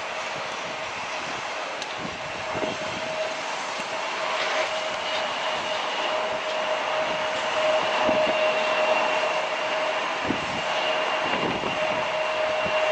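Airbus A380 jet engines running with a steady whine, gradually growing louder, while gusty wind buffets the microphone with low rumbles.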